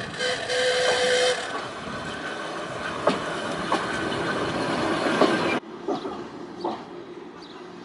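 Volks Electric Railway car running along the narrow-gauge track, with the clack of wheels over rail joints and a brief steady tone near the start. The running noise cuts off suddenly a little over five seconds in.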